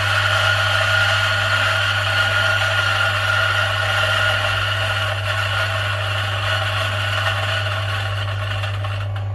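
Milesto EM40 dual-boiler espresso machine running, its pump giving a steady low hum with a buzzing upper layer, easing off slightly near the end.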